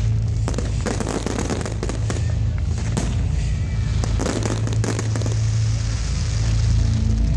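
Fireworks going off in rapid crackling volleys of sharp bangs, over music with a steady low bass.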